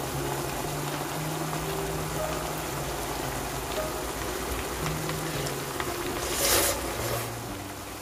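Beef bulgogi sizzling and bubbling in its soy-based sauce in a frying pan, a steady hiss, with a brief louder surge of hiss about six and a half seconds in.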